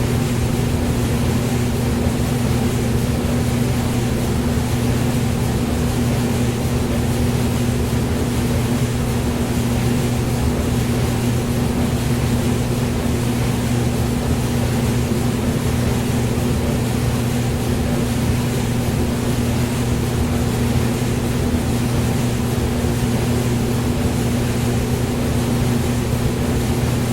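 Hair dryer running continuously at a steady speed: a constant motor hum with a rushing airflow hiss, with no change in pitch or level.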